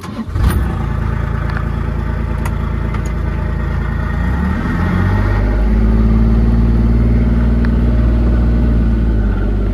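Vehicle engine starting up loud and running, rising in pitch about four to five seconds in as it speeds up, then holding steady.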